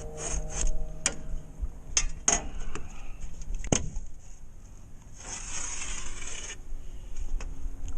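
Metal drywall T-square knocking and clicking against a sheet of drywall, then a scrape of about a second and a half along the sheet.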